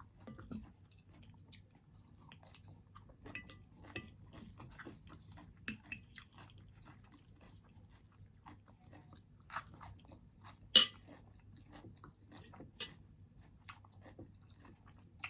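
Close-up chewing of crunchy fried shrimp, with scattered soft crunches and mouth clicks and one sharper crunch about 11 seconds in.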